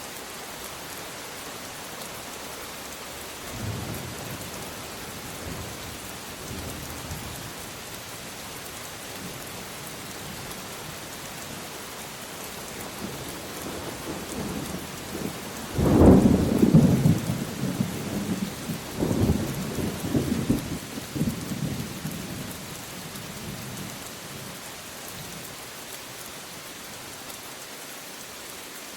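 Steady rain falling throughout, with a faint roll of thunder a few seconds in. About halfway through a sudden loud thunderclap breaks, rumbles on in a second peal, and fades away over several seconds.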